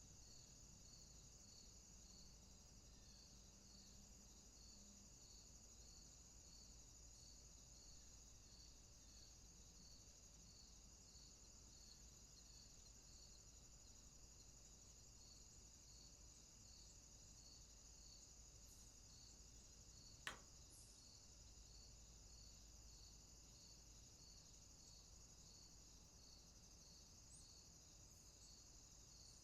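Faint night insect chorus, mainly crickets: a steady high-pitched trill with a softer chirp repeating about one and a half times a second. There is a single sharp click about twenty seconds in.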